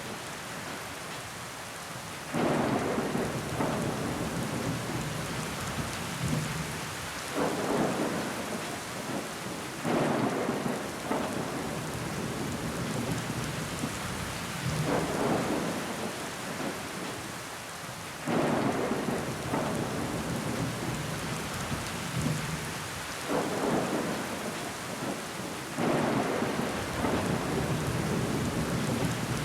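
Steady rain falling against a window glass, with louder swells of noise coming every few seconds.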